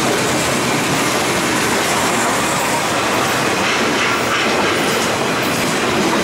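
Freight cars rolling past at speed: a steady, loud rolling noise of steel wheels on rail.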